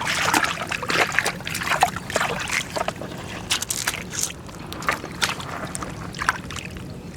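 Water splashing and sloshing in short, irregular bursts over a steady low hum.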